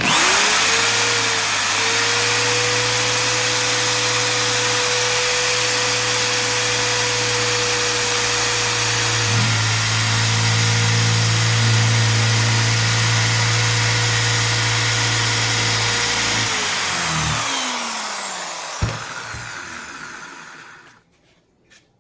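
Electric power drill running steadily with a motor hum and a whine, its note shifting about halfway through, then released and winding down with a falling pitch over several seconds. A single knock comes as it spins down.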